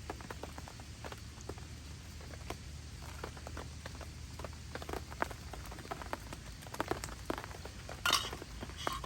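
Light taps and clinks of camp cookware and utensils, scattered through, with two brighter clinks near the end. A steady low hum underneath stops about halfway through.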